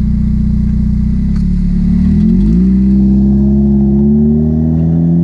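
2015 Chevrolet Colorado's 2.5-litre four-cylinder engine running loud and steady through a newly fitted aftermarket exhaust. About two seconds in, the exhaust note shifts in pitch as the engine speed changes, then holds steady again.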